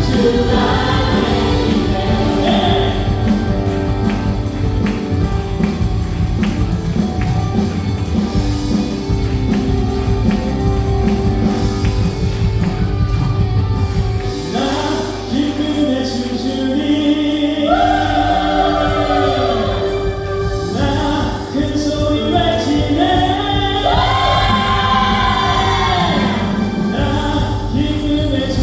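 A church praise team playing a contemporary worship song live: several voices singing over drums, bass guitar, keyboards and electric guitar. About halfway through the drums drop back, leaving the voices over keys and bass.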